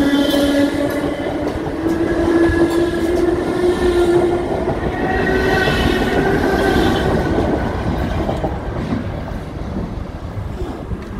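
DART electric commuter train passing close by: wheels clacking over the rail joints under a steady electric whine, dying down over the last few seconds.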